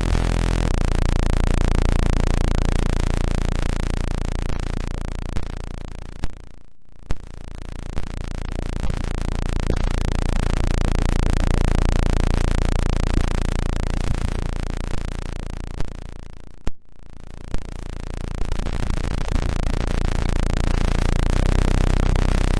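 Electronically generated tones: a few steady low hums over a rushing, hiss-like noise that swells and fades in slow waves about every ten seconds. It drops out briefly twice, near 7 and 17 seconds in, with scattered clicks.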